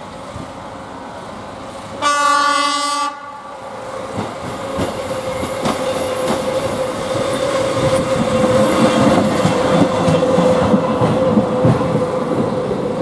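A train's horn sounds one blast of about a second, then the train runs past, growing louder, with a steady tone and the clickety-clack of wheels over rail joints.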